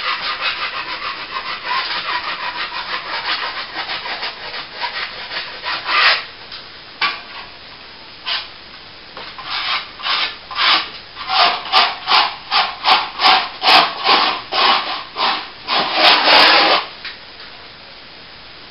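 A hand tool scraping back plaster on a wall in rubbing strokes. A fast, continuous run of strokes comes first; after a short pause, separate strokes follow at about two a second and stop shortly before the end.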